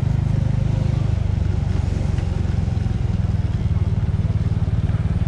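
Motorcycle engine running steadily at low speed with an even, low pulsing note as the bike rolls slowly.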